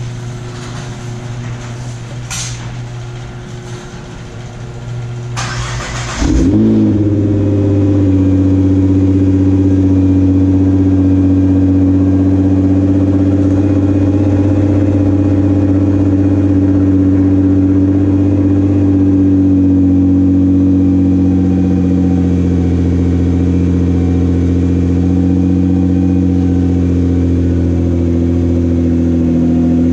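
Nissan GT-R's twin-turbo V6 cold-starting through an aftermarket titanium exhaust: the starter cranks for about a second, the engine catches about six seconds in with a sudden jump in loudness, then settles into a steady high cold idle that eases slightly lower about twenty seconds in.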